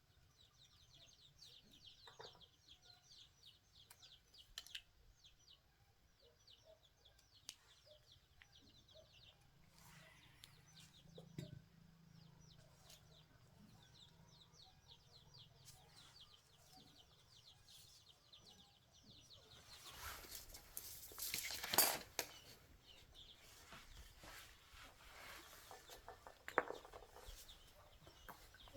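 Chickens clucking faintly, with fine rapid chirping in the first part. About two thirds of the way through comes a short, louder rustling clatter.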